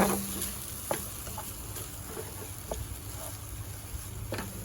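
A spoon tapping and scraping lightly against the pan while the chicken and potato cutlet filling is mixed, a few separate soft clicks spread over a few seconds.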